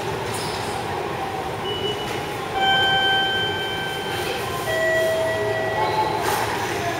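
Electric train running at a station, a steady rumble with two drawn-out squealing tones, the second lower than the first.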